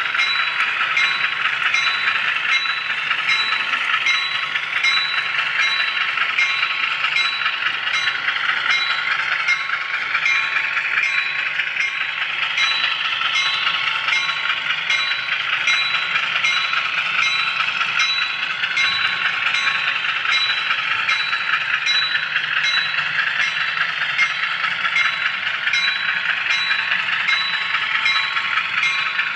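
HO scale model train running on its track, heard up close from a camera car riding the rails. There is a steady whirring whine from the wheels and motor that drifts up and down in pitch, with small clicks at an even pace as the wheels pass over rail joints.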